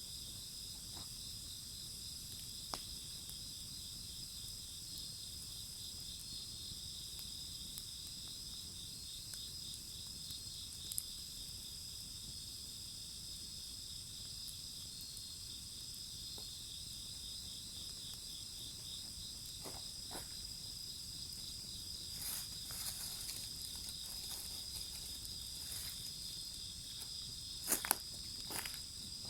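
Crickets and other insects chirping steadily in a high pulsing chorus, with scattered sharp pops from a crackling wood fire that come more often near the end.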